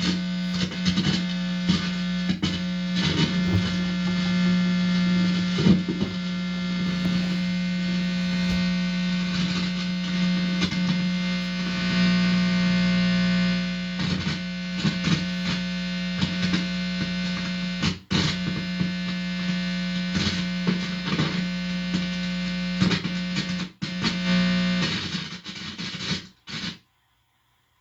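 Guitar amplifier buzzing loudly through a guitar cable whose bare tip is touched to a person's forehead: a steady mains hum with many overtones and scattered crackles, the body acting as an antenna for electrical hum. The buzz briefly drops out twice and cuts off about 25 seconds in.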